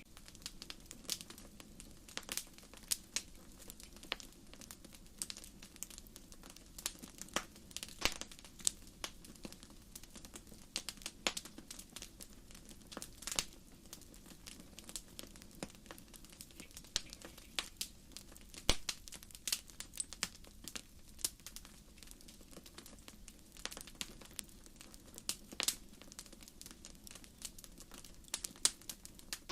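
Wood fire (bonfire) crackling, with firewood popping: irregular sharp pops and crackles, a few notably louder, over a faint steady low background.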